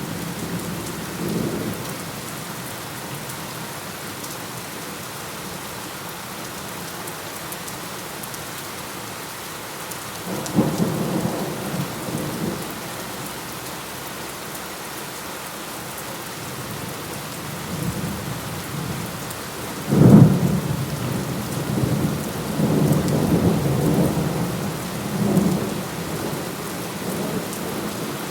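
Steady rain falling, with thunder rolling through it: a rumble about ten seconds in, then a sudden loud thunderclap about twenty seconds in that rolls on for several seconds.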